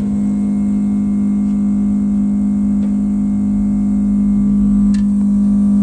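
Steady low electrical hum with a faint buzz, as of a smoke leak tester's air pump running while it feeds smoke into the engine's intake to find a vacuum leak. A few faint ticks sound over it.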